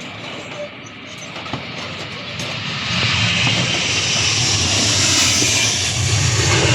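Airliner engines passing close, a broad rushing noise with a low rumble that grows loud about three seconds in and holds.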